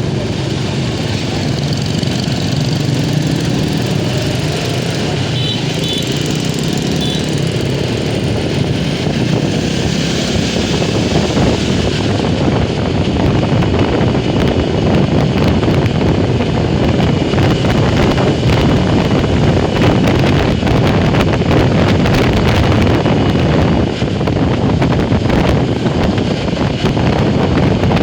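Motorcycle engine running steadily under way, with wind rushing and buffeting over the microphone that grows a little louder about halfway through.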